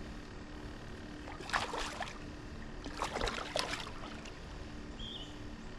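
Water splashing in two short bursts about a second apart, over a steady low hum.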